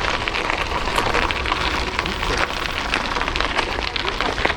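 Bicycle ride noise: wind buffeting the microphone with a steady low rumble, mixed with a dense crackle like tyres rolling over a rough path.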